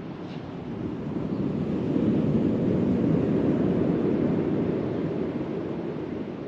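Wind and surf noise on an open beach, a steady rushing haze that swells louder for a few seconds in the middle, with wind buffeting the microphone.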